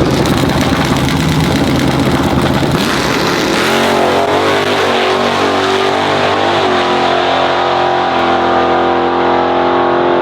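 Drag-racing trucks run at full throttle down the strip. A rough, noisy opening gives way about four seconds in to a steady, high engine note, which steps in pitch about seven seconds in.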